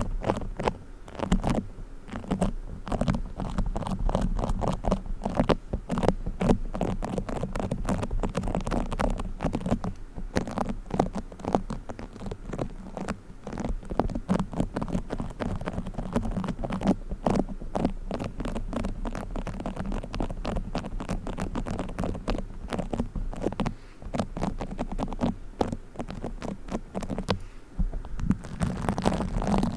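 Fingers squishing and scratching play foam, a bead modelling compound, making a dense, irregular run of small crackling clicks and scratches.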